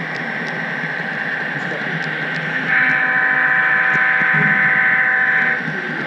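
Steady running noise of an HO-scale model train. About three seconds in, a model diesel locomotive's horn sounds one long blast of almost three seconds.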